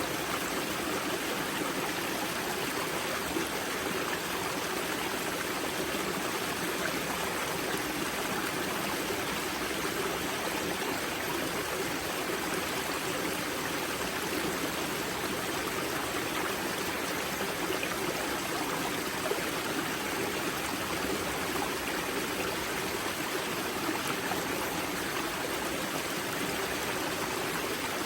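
Water of a spring-fed river at its source rushing and splashing over rocks, a steady, even flow with no change.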